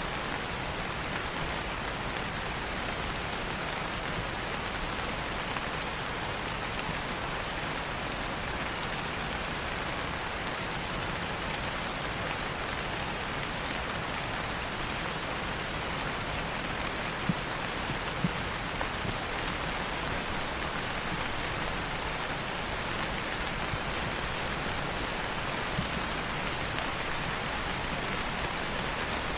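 Steady rain falling, an even hiss of rain on a surface, with a few sharper single ticks about two-thirds of the way through.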